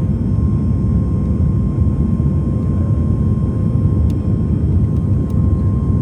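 Steady low rumble of a Boeing 737 MAX 8's CFM LEAP-1B jet engines and airflow, heard from inside the cabin, with a faint steady whine above it.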